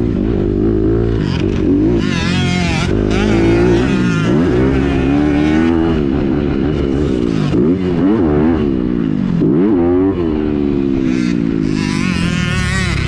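2021 Honda CRF250R's single-cylinder four-stroke engine, through a Yoshimura RS-9T titanium exhaust, revving hard while being ridden. Its pitch climbs and drops every second or two with throttle and gear changes.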